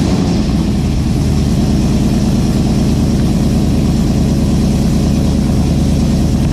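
LS V8 in a 1993 Chevrolet OBS pickup, freshly started and idling steadily through a new custom 3-inch exhaust with X-pipe and mufflers. The idle is refined and hides the aftermarket cam well.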